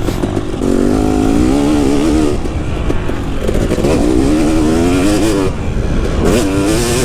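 KTM 250 SX two-stroke motocross engine revving hard, its pitch rising and falling as the throttle is worked. The note drops a little over five seconds in, then climbs again about a second later.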